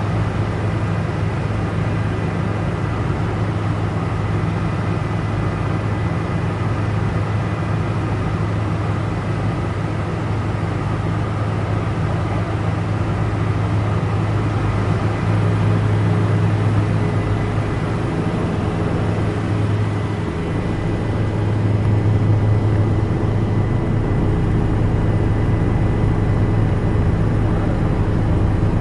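Helicopter in flight heard from inside the cabin: a steady low drone of engine and rotors, with a thin steady whine above it. It grows a little louder about halfway through and again near three quarters of the way.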